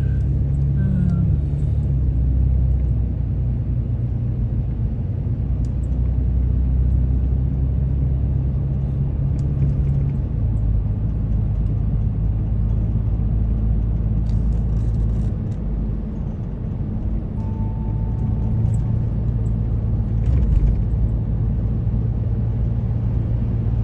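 Car engine and road rumble heard from inside the moving car's cabin, steady throughout. The engine's tone drops lower about ten seconds in.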